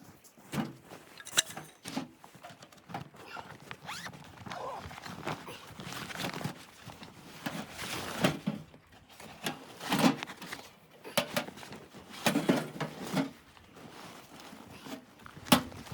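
Irregular rustling and handling noises, with a few sharp clicks and knocks scattered through.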